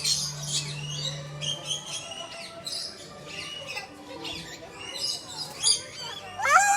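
Many small birds chirping and squawking at once, short high calls overlapping all through.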